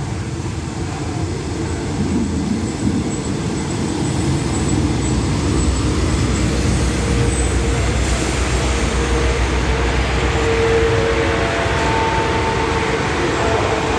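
Diesel railcar train pulling into the station: a low rumble of engines and wheels on rail that grows louder as the coaches draw alongside and pass close by, with a few short tones near the end as it slows to stop.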